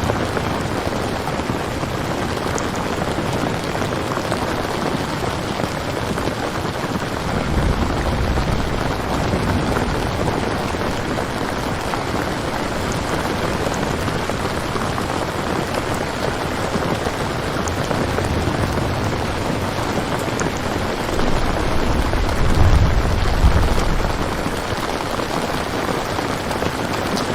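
Steady, heavy rain falling, with two low rumbles swelling up a third of the way in and again near the end.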